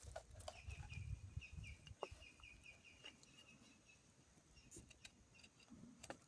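Faint bird call: a rapid run of short, high notes lasting about two and a half seconds, with scattered clicks and low thuds of handling noise early on.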